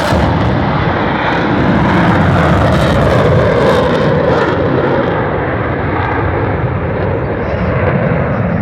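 Loud jet noise from a Eurofighter Typhoon's two Rolls-Royce EJ200 turbofans in a flypast, the high hiss fading and the pitch sliding slowly lower as the jet moves away.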